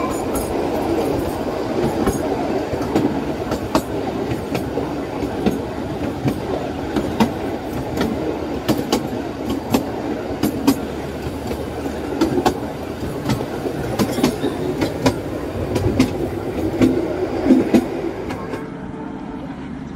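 Narrow-gauge Kalka–Shimla toy train running along the line, with steady wheel rumble and irregular sharp clicks of wheels over rail joints. The sound becomes quieter and duller near the end.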